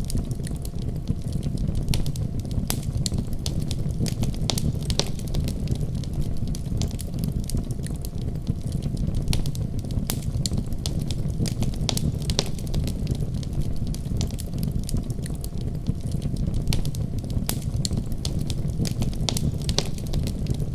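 Wood fire burning, a steady low rumble of flame with frequent sharp crackles and pops.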